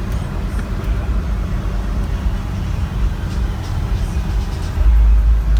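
Music played loud through a twelve-subwoofer car-audio system (Crossfire XS V2 subs), heard from inside the truck's cab as a heavy, rumbling low end. The bass swells louder near the end.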